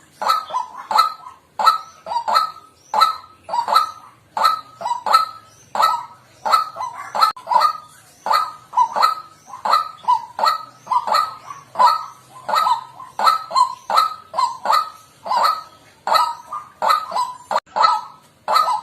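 White-breasted waterhen calling: a loud, repeated honking 'kwak' note, about two a second and often in pairs, going on without a break.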